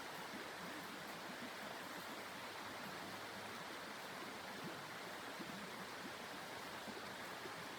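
Steady rushing of blizzard wind, unchanging in level.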